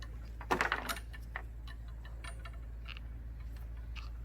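A few light clicks and taps of small hard objects, a quick cluster of them about half a second in and scattered softer ticks after, over a steady low hum.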